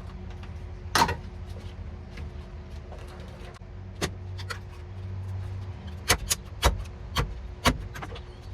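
Sharp taps and knocks of a hand tool striking the car's sheet-metal body as sound deadener and seam sealer are pried and chipped loose. There is one knock about a second in, another around four seconds, then a quick run of five near the end, over a steady low hum.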